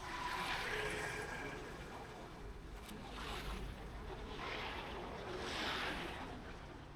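Traffic noise with wind rushing over the microphone while riding a motorbike, swelling and fading every second or two.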